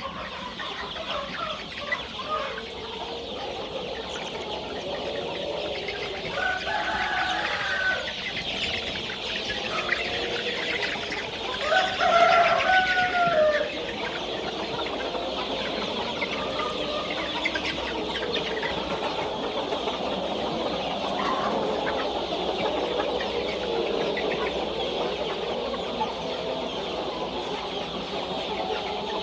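A large flock of chickens clucking and calling all at once in a steady din. Two longer calls stand out, one about seven seconds in and a louder one about twelve seconds in, in the manner of a rooster crowing.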